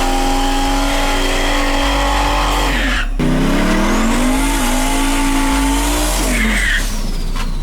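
A car engine run hard at high, steady revs with tires squealing. About three seconds in the sound breaks off for an instant, then the engine's pitch climbs steadily for about three seconds before dropping away.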